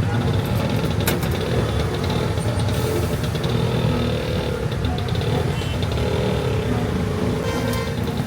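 A motor engine running steadily at idle, a low rumble, with a sharp click about a second in.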